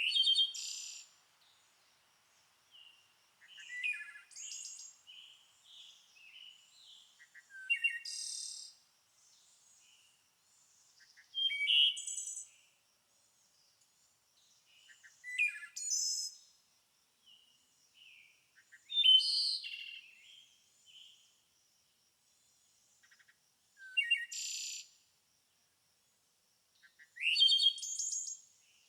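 A songbird singing: short, varied, high-pitched phrases of chirps and trills, each about a second long and repeated roughly every four seconds, with quiet pauses between.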